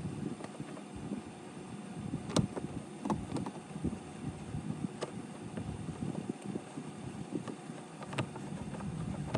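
Handling noise of a 10 mm fastener being worked loose by hand with a socket and extension: irregular rubbing and fumbling with a few light, sharp metallic clicks, the clearest about two and a half, five and eight seconds in.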